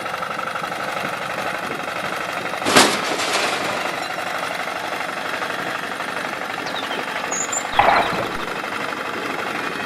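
A small motor running steadily, with a sharp knock about three seconds in and another short clatter near eight seconds.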